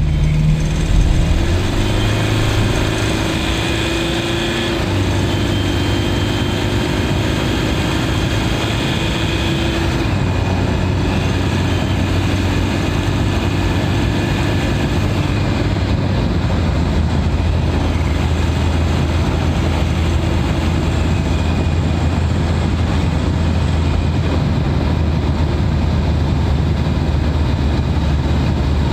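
Mitsubishi Pajero Sport Dakar's 2.4-litre turbodiesel heard from inside the engine bay, running steadily at highway cruising speed. A high turbo whistle sits over the engine note for roughly the first ten seconds, then fades.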